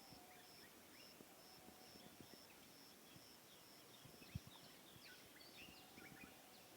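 Faint early-morning birdsong: scattered short chirps and whistled notes from several birds, over a high note repeated about twice a second, with a few soft clicks.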